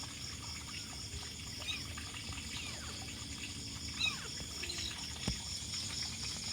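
Kittens mewing: a few short, faint, high-pitched calls scattered over a steady hiss. They are hungry kittens crying for their mother.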